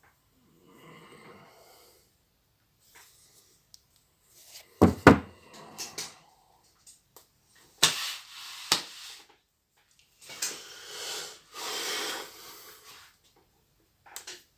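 Workshop handling sounds: scattered knocks and clatters, a pair of loud heavy thuds about five seconds in, sharp clanks a few seconds later, then a couple of seconds of scraping or rustling.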